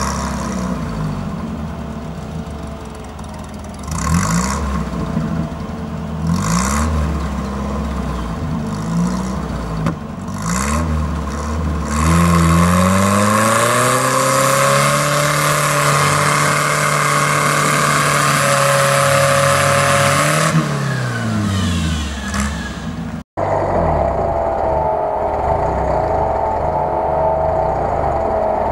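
UAZ-469 off-roader's engine revving in repeated bursts through a muddy forest rut, then held at high revs for about eight seconds before dropping back. After an abrupt cut near the end, another off-road 4x4's engine runs at lower, steadier revs.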